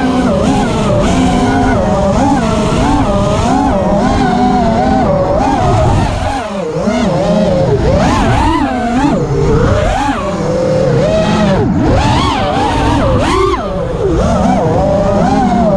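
Small electric motors of an FPV racer whining, their pitch rising and falling quickly and constantly with the throttle, with a couple of short dips in level.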